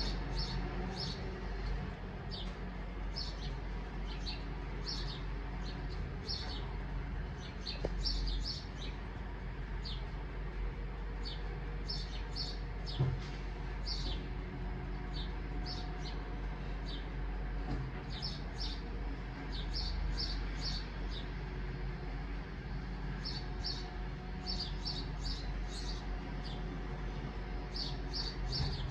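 Small birds chirping in quick clusters of short, high notes, over a steady low hum, with a single knock about halfway through.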